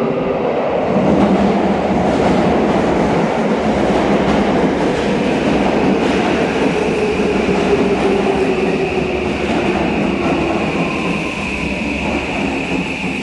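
Six-car electric commuter train pulling into an underground station platform, its wheels clattering over the rails. The motor whine falls slowly in pitch as the train brakes to a stop.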